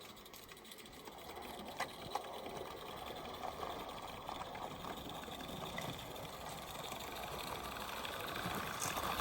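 A small garden-railway model locomotive running along the track, its mechanical running noise growing gradually louder as it comes closer, with a few faint clicks from the wheels.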